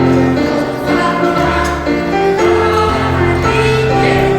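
A children's hymn sung by a group of voices over steady held accompaniment chords and a moving bass line.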